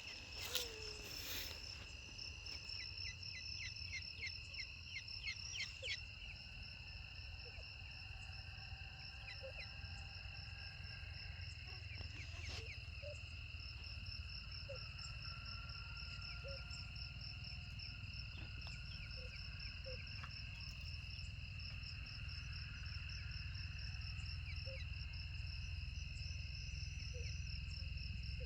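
Steady insect chorus of crickets trilling, with a run of quick high chirps in the first six seconds and a low rumble underneath.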